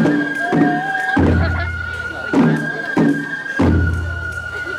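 Japanese festival music: a bamboo flute holding high notes over a slow, steady drum rhythm, with a deep taiko boom about every two and a half seconds and lighter strikes in between.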